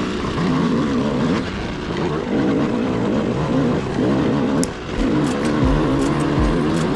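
125cc two-stroke dirt bike engine being ridden, its pitch rising and falling as the throttle is worked on and off. Low thuds come in over the last couple of seconds.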